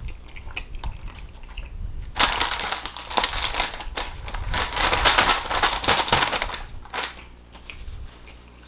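Close, dense crackling and crunching, loudest from about two seconds in until about seven seconds in, with scattered small clicks around it.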